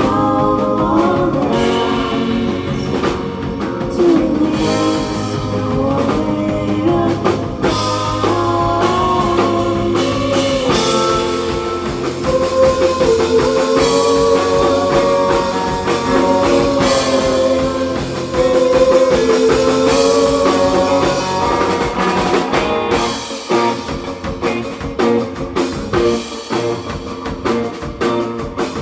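Live surf-rock band playing: electric guitar melody over bass and drum kit. The low end drops away and the playing turns sparser near the end.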